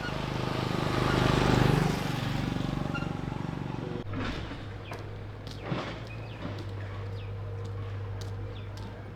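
A motor vehicle's engine passing by: it grows louder to a peak about a second and a half in, then fades away. After that a steady low hum remains, with scattered short clicks and chirps.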